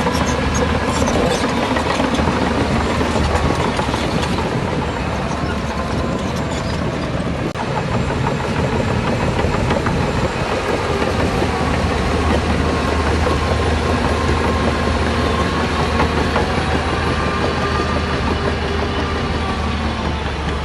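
Diesel engine of heavy earthmoving machinery running steadily with a deep hum, with clanking in the first few seconds.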